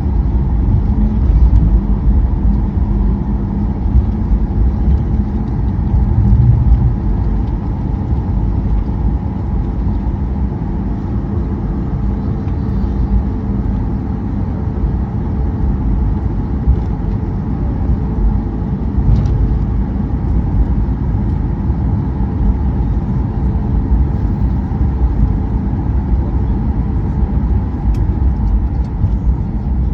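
Steady low rumble inside the cabin of a Boeing 737 MAX 8 taxiing after landing, with a faint constant hum over it.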